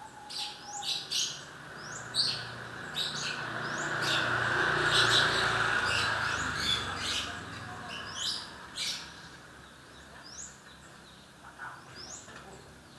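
Lovebird chattering in full song ('gacor'): rapid, shrill, repeated chirps, thick in the first half and thinning out later. A rushing noise swells and fades under the chirps in the middle.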